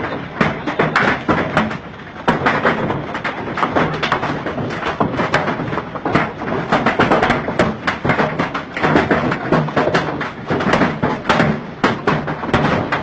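Heavy hail pounding hard surfaces: a dense, continuous clatter of countless impacts.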